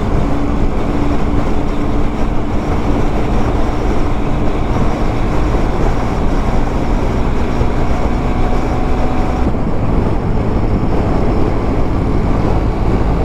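Motorcycle engine running at a steady cruising speed under heavy wind and road rush, as heard by the rider. The engine note shifts about nine and a half seconds in.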